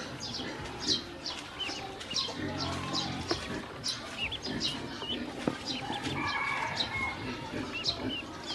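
A group of ducklings peeping constantly: many short, high cheeps that slide downward and overlap, with a few sharp clicks among them.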